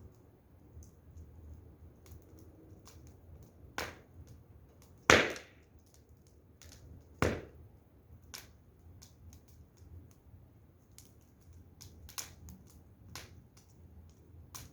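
Wood fire crackling, with scattered small cracks and two loud pops about five and seven seconds in.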